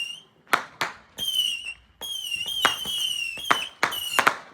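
Consumer fireworks going off: several shrieking whistles, each lasting up to about a second, mixed with about six sharp bangs.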